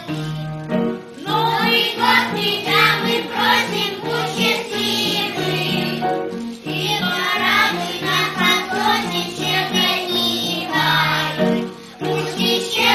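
Children's song: a child singing with a group of voices over an instrumental backing track.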